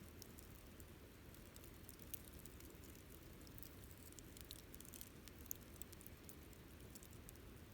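Wood campfire burning faintly, with scattered small crackles and pops over a soft, steady low noise.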